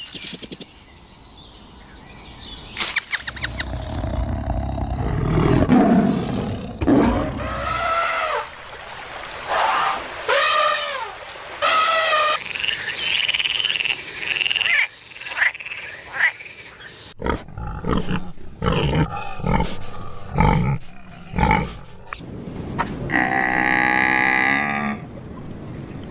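A succession of different animal calls: a low rumbling growl, then several rising-and-falling pitched calls, high thin calls, a run of sharp clicks, and near the end one long call rich in harmonics.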